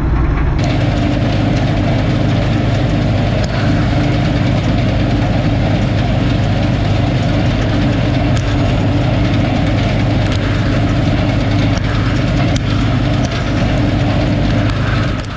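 Combine harvester running steadily under load, a loud engine hum with the dense rattle of the threshing machinery over it; the sound shifts slightly about half a second in.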